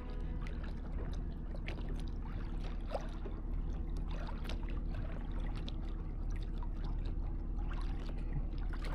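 A boat engine running steadily, with water splashing and trickling in small, irregular ticks over it.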